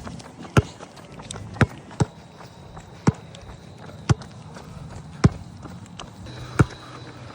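A runner's footfalls, heard as sharp thuds roughly once a second, with a faint steady high tone in the background from about two seconds in.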